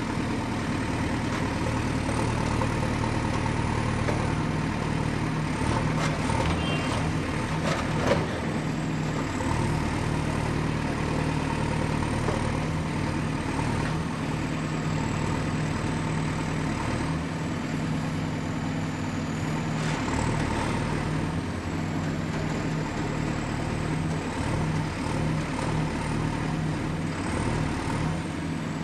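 Excavator's diesel engine running steadily at work. A few short knocks come between about six and eight seconds in, the loudest near eight seconds, over a faint high whine that wavers in pitch.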